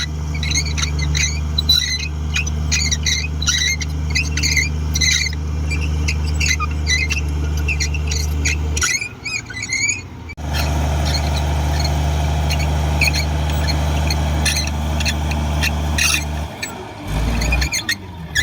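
Komatsu D58 bulldozer's diesel engine running steadily, with repeated short high squeaks over it. The engine sound breaks off about nine seconds in and comes back a second or so later.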